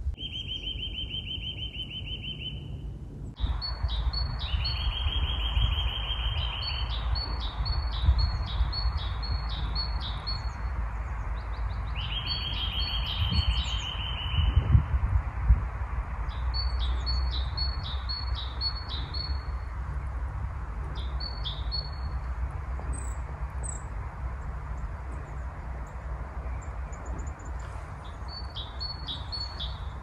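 Several songbirds singing: a fast trill held on one pitch for about two seconds, three times, and repeated runs of quick, higher chirping notes. A steady low rumble and hiss lie underneath.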